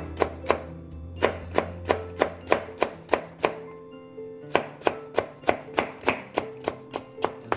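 Kitchen knife chopping Korean radish into thin strips on a cutting board: sharp, even strokes about three a second, pausing briefly about four seconds in. Background music plays underneath.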